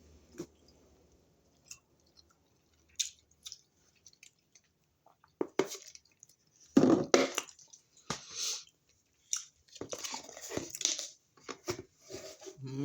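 Close-up mouth sounds of a person chewing a raw vegetable snack: crisp crunches and wet chewing that start a few seconds in and come in irregular bursts.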